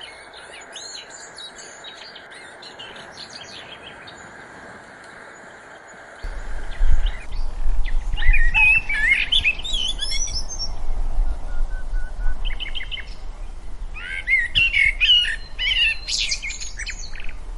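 Small birds chirping and calling in high, quick, twittering notes. They are faint at first, then louder and busier in clusters about eight seconds in and again near the end. A steady low rumble joins about six seconds in.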